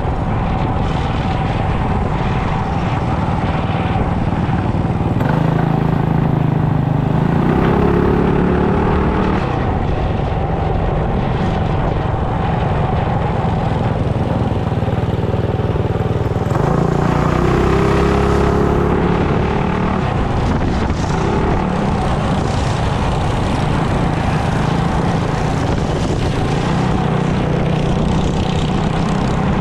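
Small single-cylinder mini bike engine running while ridden, revving up twice as it accelerates, with wind on the microphone.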